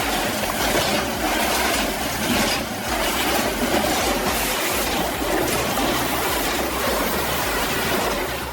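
Loud, steady mechanical noise of heavy machinery running.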